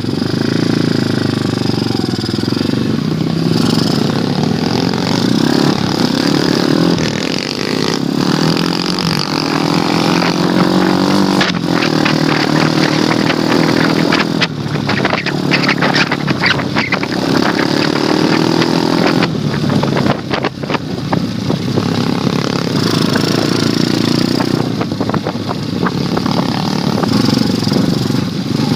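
Pit bike engine running and being revved up and down while ridden, its pitch rising and falling. Partway through come bursts of rattling and knocks over the engine.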